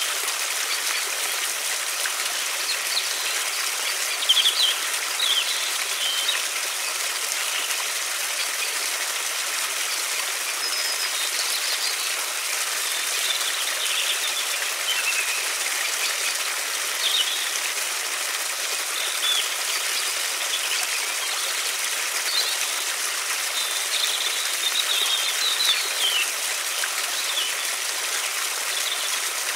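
River water running steadily, with small birds chirping and singing on and off above it.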